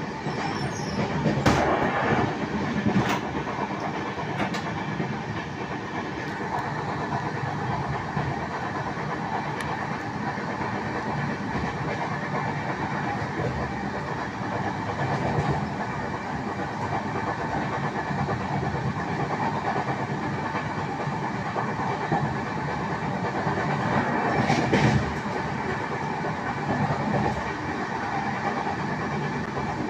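Passenger express train running at speed, heard from inside a coach: a steady rumble of wheels on rails. A few sharp knocks come in the first few seconds, and a louder clatter at about 25 seconds.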